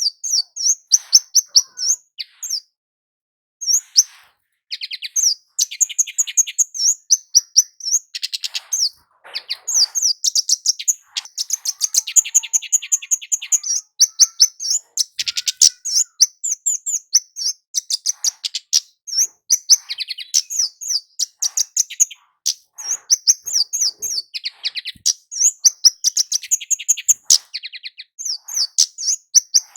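Kemade jawa flowerpecker calling: fast trains of high, sharp 'cit' ticking notes repeated almost continuously, with one brief pause a few seconds in.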